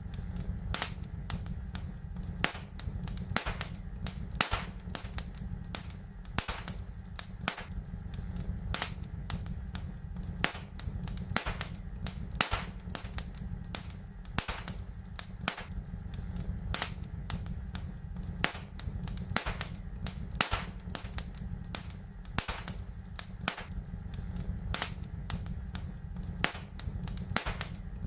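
Fireplace fire crackling, with frequent irregular sharp pops over a steady low background noise.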